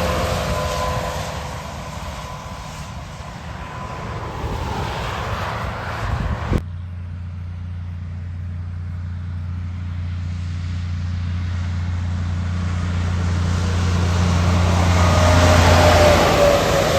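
Heavy trucks driving past. One truck's engine and tyre noise fades with a falling pitch, and everything but a steady low hum cuts off suddenly about six and a half seconds in. Another truck then approaches and passes near the end, its pitch falling as it goes by.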